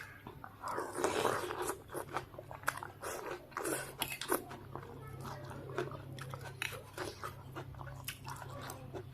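Close-up eating sounds of noodles and raw bird's eye chilies: chewing with crunchy bites and wet mouth clicks, coming irregularly throughout.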